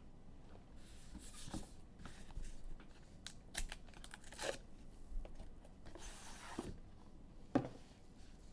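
Trading cards and their plastic sleeves being handled: scattered light clicks and taps, with two short rustles, one about a second in and one about six seconds in.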